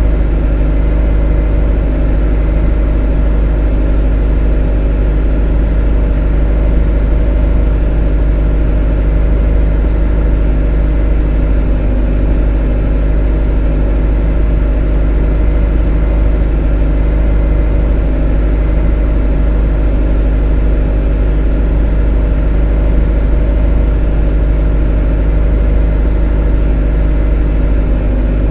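A motor running steadily at constant speed: a deep, even drone with a stack of steady humming tones above it, unchanging throughout.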